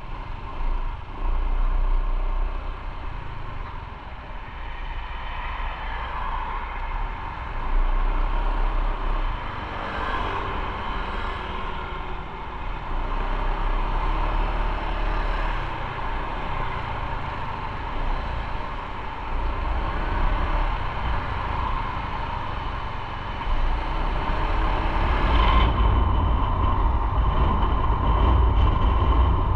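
Motorcycle running on the road, a steady engine and road noise with a low rumble that swells and fades.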